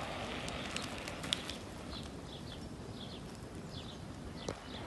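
Steady outdoor background noise with a few short bird chirps in the middle, and two sharp clicks, one about a second in and one near the end.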